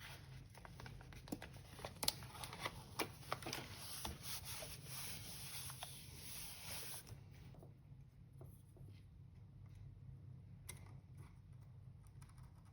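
Faint rustling and tearing handling noise, like tape or paper being peeled and crinkled, with many light clicks for about seven seconds, then quieter with only occasional clicks over a steady low hum.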